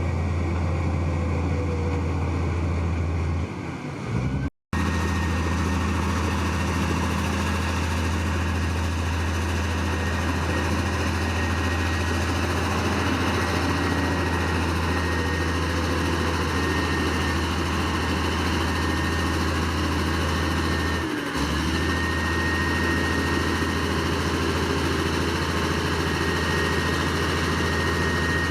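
Heavy diesel engine of earthmoving machinery running steadily, with the sound cutting out briefly about four and a half seconds in.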